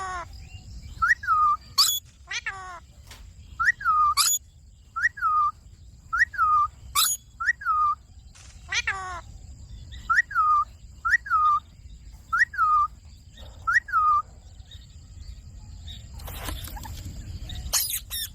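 Indian ringneck parrot calling over and over: short whistled notes that drop in pitch, about one a second, mixed with a few shrill screeches that shoot upward. A brief rustling noise comes near the end.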